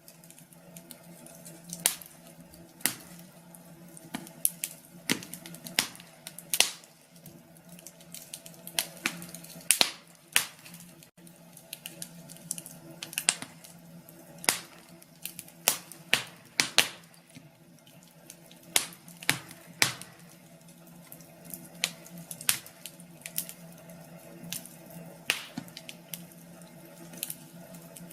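Wood fire in a fireplace crackling: irregular sharp pops and snaps, about one or two a second, over a soft steady background.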